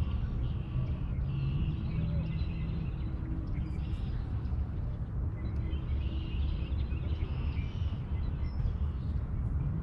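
Outdoor lakeside ambience: a steady low rumble, with birds calling repeatedly in short phrases over it.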